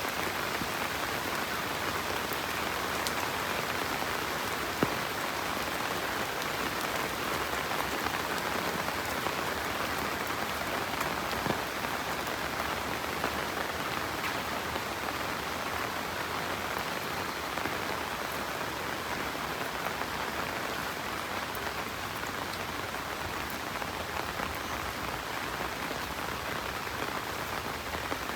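Steady rain falling on surfaces, an even hiss with scattered louder drops, the sharpest about 5 s in and again near 11.5 s.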